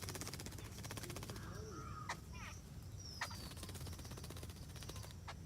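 Wild birds chirping and calling: scattered short chirps, a falling whistle about three seconds in, and a few sharp clicks, over a low steady rumble.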